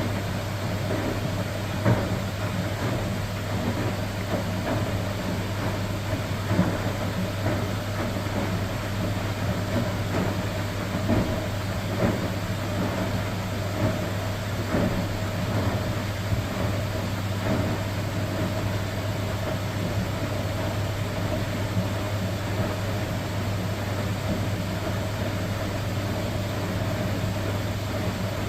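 Electrolux Professional WN6-20 commercial front-loading washing machine in its first rinse: a steady machine hum with scattered short knocks from the wet load in the turning drum, more of them in the first half.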